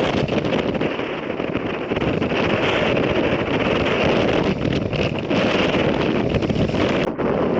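Strong wind gusting against the microphone, a loud steady rush with fluttering buffets and a brief lull about seven seconds in.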